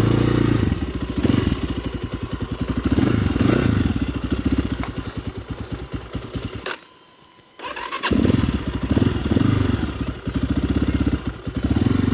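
Dirt bike engine running cold, not yet warmed up, its rapid firing pulses rising and falling in pitch as it is ridden. Just past halfway the sound cuts out almost completely for about a second, then the engine comes back.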